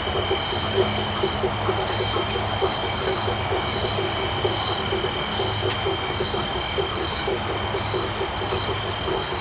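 Tropical night chorus of frogs and crickets: a steady high insect trill over rapid, repeated low frog calls, with a higher call repeating about twice a second.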